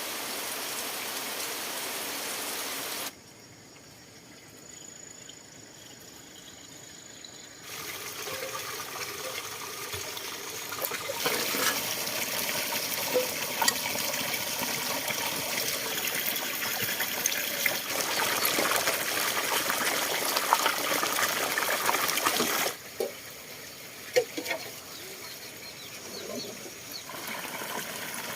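Water running and splashing, in several stretches that change level abruptly.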